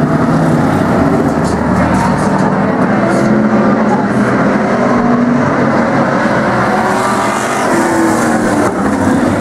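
Several race car engines running together on a speedway, a pack of demo cars at speed, with overlapping engine notes that rise and fall slightly.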